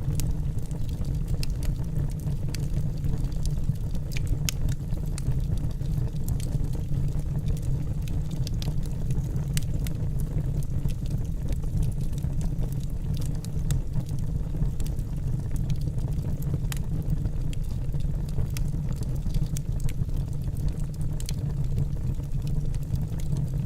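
Wood fire burning in a fireplace: a steady low rumble with many scattered sharp crackles and pops from the burning logs.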